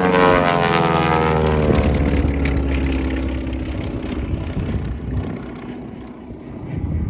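Twin Beech 18's twin radial engines going past low and loud, the engine note dropping in pitch as it passes, then fading away.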